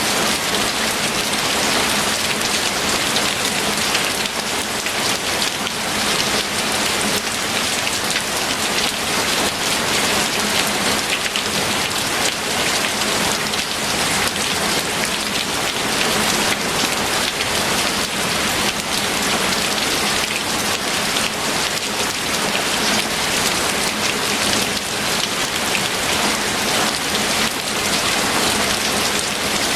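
Steady rain falling on a surface: an even hiss made up of countless close drop hits, unchanging throughout.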